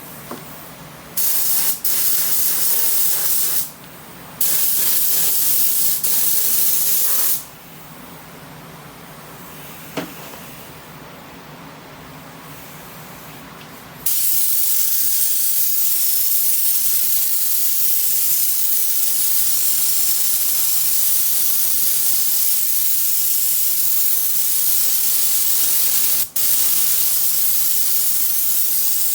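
Mini touch-up paint spray gun hissing as its trigger is pulled in passes, laying down Dodge Viper red base coat. Two short passes of a few seconds each come first; then a long steady pass starts about halfway, with a brief break near the end.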